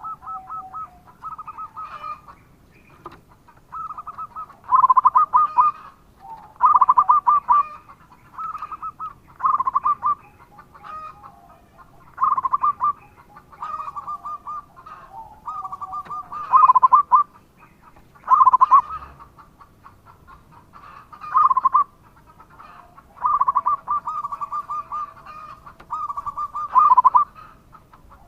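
Zebra dove (perkutut) cooing its song over and over: short, rapidly pulsed, rolling phrases about every one to two seconds, some much louder than others.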